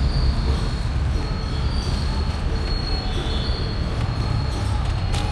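Steady low rumble and hiss of a moving vehicle, with a thin high whine throughout.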